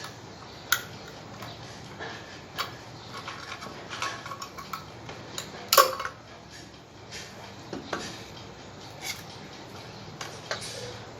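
Irregular metallic clinks and knocks as parts of an antique ship's compass and tools are handled during its restoration, the loudest knock about halfway through.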